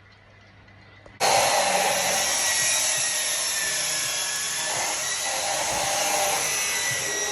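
A power tool starts abruptly about a second in and runs steadily: a loud, hissing, grinding noise with a faint high whine, from work on a car's exhaust.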